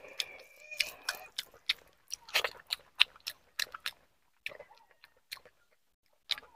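Close-miked chewing and mouth sounds of a person eating: an irregular run of short, sharp smacks and clicks, with a few brief pauses.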